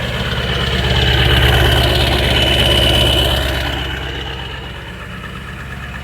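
A Ford 7.3-litre V8 diesel engine idling cold, less than half a minute after a 20-degree cold start. Its steady rumble swells louder with a high whine for a couple of seconds about a second in, then settles back down.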